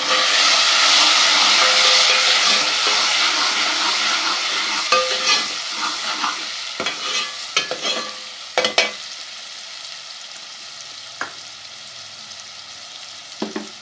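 Ginger-garlic paste and browned onions frying in hot ghee, sizzling loudly at first and dying down over the first several seconds. The pan is stirred, with scrapes and knocks against it every second or two.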